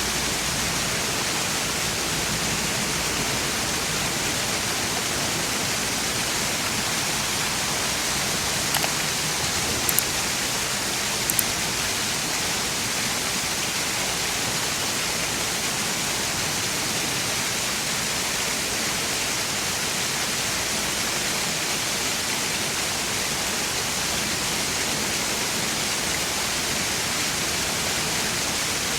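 Park fountain water splashing and falling in a steady, even rush, with a few brief ticks in the middle.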